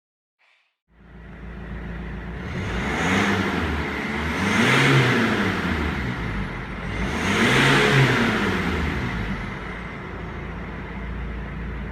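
Mercedes SLK 250 CDI four-cylinder diesel revving, with an active sound generator, a speaker in the spare-wheel well, adding a synthetic engine note. The sound starts abruptly about a second in and then rises and falls in pitch in about three rev swells.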